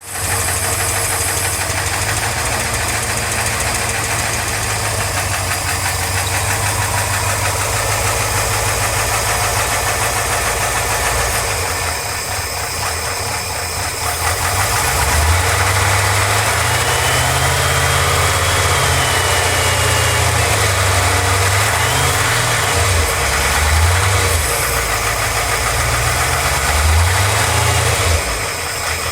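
An engine running and making an unexplained noise. It is steady for the first half. From about halfway its low drone rises and falls in pitch several times.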